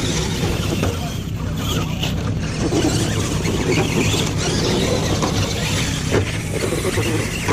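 Radio-controlled monster trucks running on the race track, a steady mix of motor noise, with faint voices in the background.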